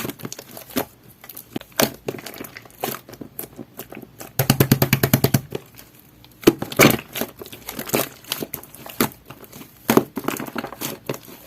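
Jelly-textured slime being squeezed and pressed by hand, giving sharp wet clicks and air-bubble pops. About four seconds in there is a quick run of rapid clicks lasting about a second.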